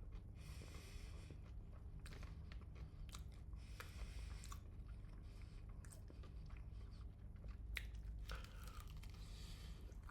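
A person chewing and crunching crispy fried chicken, with scattered sharp crunches from biting and brief bouts of crackly chewing.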